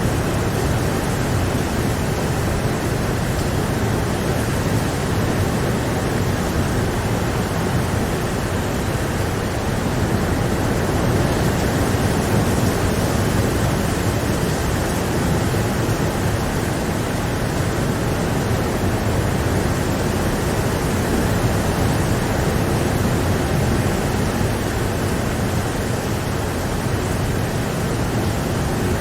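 Steady heavy rain, an even rushing hiss with no distinct drops or thunder.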